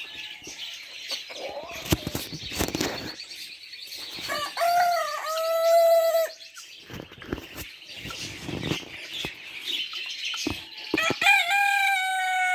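A rooster crowing twice, each crow a long held call of nearly two seconds, first about four and a half seconds in and again near the end. Other poultry cluck and small birds chirp around it.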